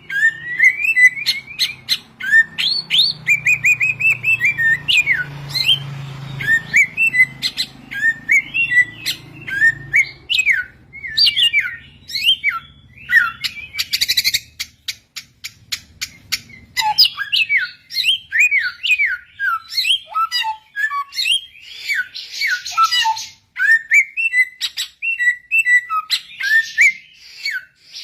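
Samyong bird singing: a continuous, fast run of short whistled and chirping notes that slide up and down, with a few harsher buzzy notes near the end.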